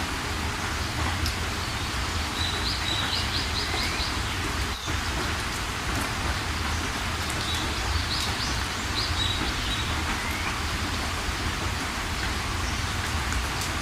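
Steady rainfall, with a small bird calling over it twice, each call a quick run of short high notes.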